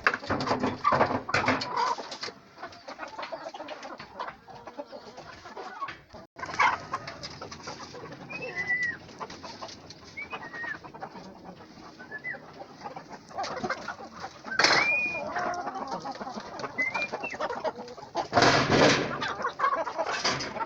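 Chickens and roosters calling and clucking, with short curved calls through the middle and several louder, harsher bursts of calling.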